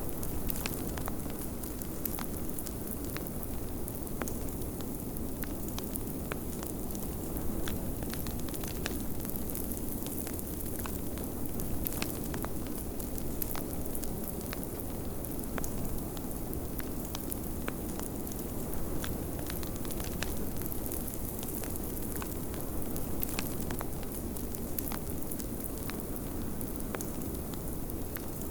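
Fireplace crackling, with many small sharp pops scattered over a steady low rush of blizzard wind.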